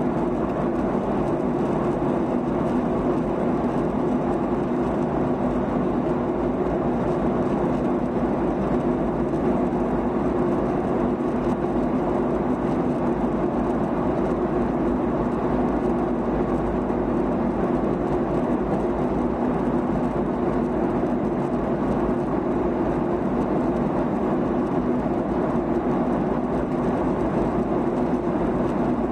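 Boeing 737-800 in flight, heard from the passenger cabin: a steady drone of its CFM56-7B turbofan engines and rushing airflow, with a low hum that holds at one pitch.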